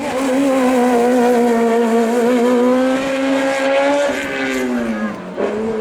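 Competition car's engine running hard at high revs as it climbs, its note rising slowly, then dropping about four seconds in as the driver lifts or shifts, and picking up again near the end.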